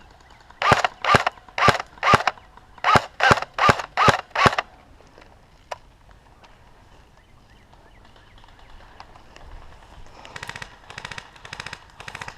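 Airsoft guns firing: nine loud, close, short bursts spaced under half a second apart in the first half, then fainter rapid-fire bursts from farther off near the end.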